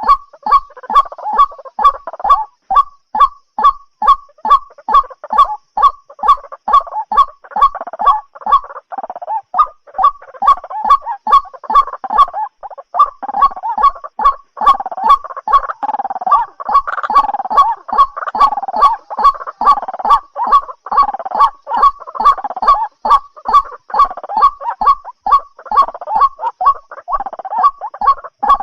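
White-breasted waterhen calling loudly: harsh calls repeated steadily a few times a second, with a rougher chattering layer beneath.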